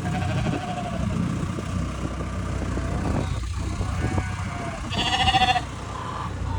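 Dorper sheep bleating: a faint call at the start, then one loud, quavering bleat about five seconds in, over a steady low rumble.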